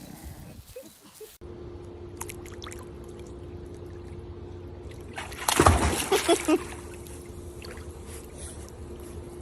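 A loud splash of water about five and a half seconds in, lasting about a second, over a steady low hum.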